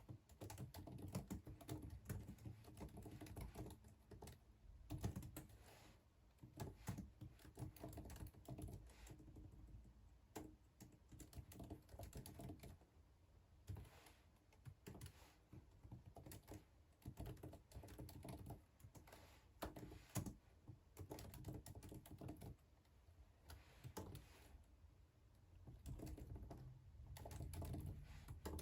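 Faint typing on a computer keyboard: runs of quick key clicks in bursts with short pauses between them.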